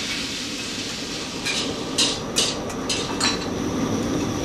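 Kitchen cookware and metal utensils clinking and clanking over a steady background hum, with a quick run of about six sharp clanks in the middle.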